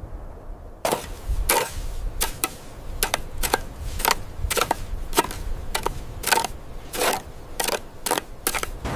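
A series of sharp, irregular impacts starting about a second in, roughly two a second.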